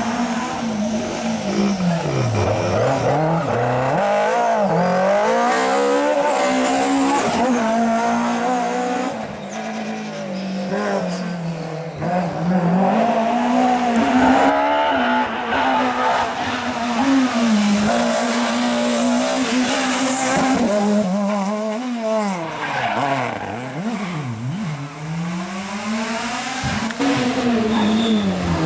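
Rally car engines driven hard, revving up and dropping sharply again and again as the drivers shift gears and lift off.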